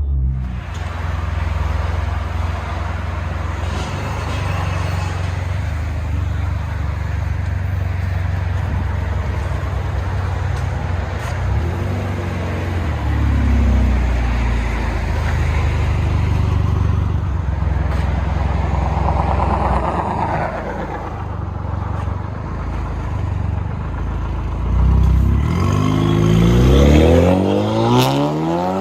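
A Chevy Camaro's 2.0L turbo four-cylinder engine and aftermarket exhaust, heard from inside the cabin: a deep, steady drone at low revs that swells about halfway through, then the revs climb with a rising pitch near the end.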